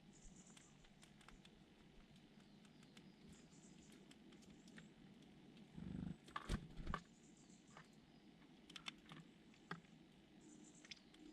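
Quiet outdoor bird scene: a few brief, high bird chirps over scattered small taps and clicks, with a cluster of louder knocks about six to seven seconds in.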